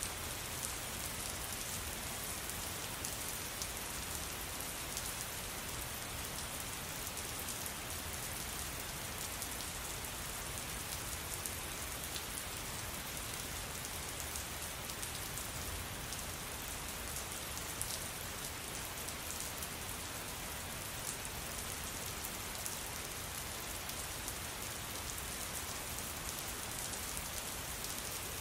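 Steady rain falling, an even hiss with scattered sharper hits of single drops.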